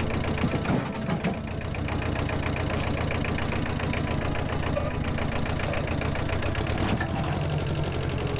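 An engine running steadily at a constant speed, with a fast, even beat.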